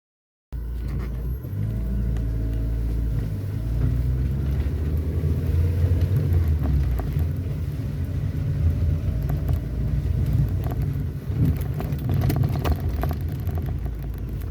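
A vehicle driving along a road: a steady low rumble of engine and road noise, with a few knocks and rattles about twelve seconds in.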